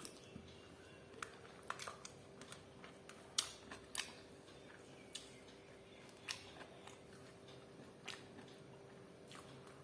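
A person eating chicken dry fry with rice: scattered soft clicks, snaps and crunches of biting and chewing at irregular intervals, the loudest about three and a half seconds in. A faint steady hum runs underneath.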